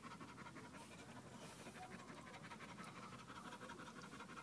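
Dog panting faintly and fast in an even rhythm while whelping.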